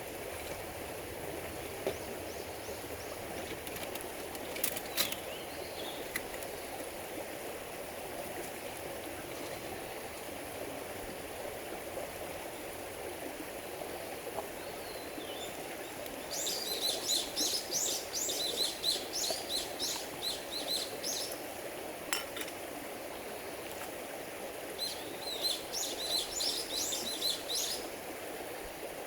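Songbird twittering outdoors in two long bouts of rapid high chirps, one about halfway through and one near the end, over a steady low rushing background.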